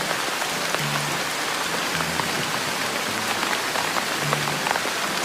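Steady rain falling, a dense hiss of many small drop clicks, with slow low bass notes of music underneath.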